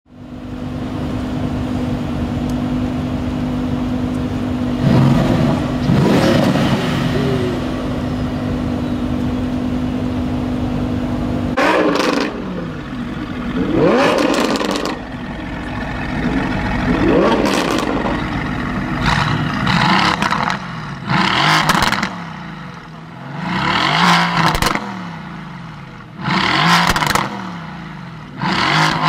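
Mercedes-AMG GT S 4.0-litre twin-turbo V8 through an aftermarket Per4mance exhaust, idling steadily with one rev about five seconds in. From about twelve seconds on it is blipped repeatedly from standstill, with short, loud revs every two to three seconds that climb sharply and drop back to idle.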